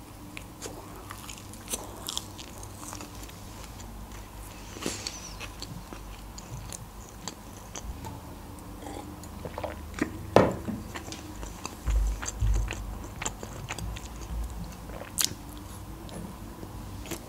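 Close-miked biting and chewing of KFC fast food, with wet mouth clicks and smacks. Partway through comes a drink of water from a glass, with a sharp click and a few low gulps.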